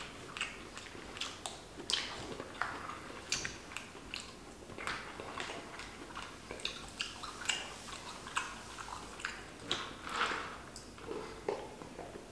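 Close-miked chewing of a spoonful of corn kernels: irregular wet mouth clicks and smacks, about one or two a second.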